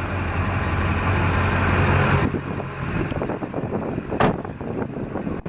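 Duramax 6.6-litre V8 turbodiesel with an MBRP exhaust idling steadily. The sound changes abruptly about two seconds in, and there is a sharp click about four seconds in.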